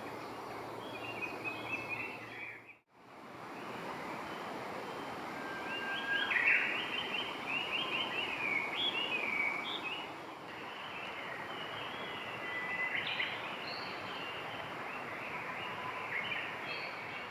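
Small birds chirping in short, rapid phrases over a steady outdoor hiss, with a brief drop to silence about three seconds in.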